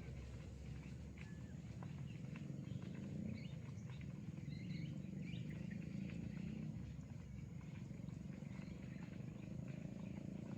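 Small birds chirping in short, scattered calls over a steady low rumble that swells slightly in the middle.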